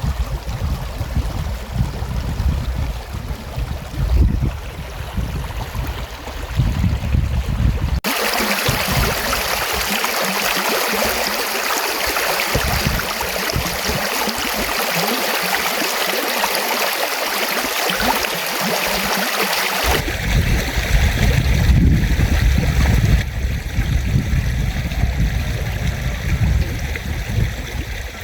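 Loud, steady rush of running water, like a forest stream. It changes abruptly twice: about a third of the way in, a deep rumble gives way to a bright, hissing rush, and about two thirds of the way in the deep rumble returns.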